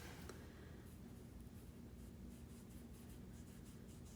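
Faint, soft scratching of a watercolour brush stroked across paper as a paint swatch is laid down, over a low steady room hum.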